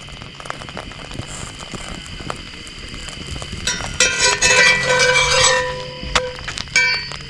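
Clinking and knocking, like cookware and utensils being handled, densest and loudest for about two seconds in the middle. Behind it, insects chirp steadily.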